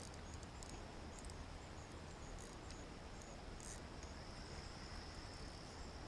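Faint steady outdoor ambience: insects, likely crickets, chirping with a thin high tone and scattered short chirps, over a low rumble.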